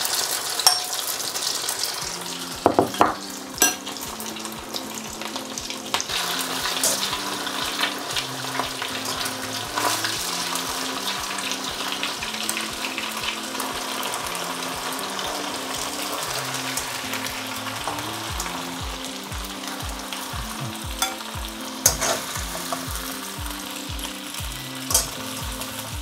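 Sliced beef flash-frying in plenty of hot oil in a steel wok: a steady sizzle, with a few sharp clinks of a metal utensil against the wok.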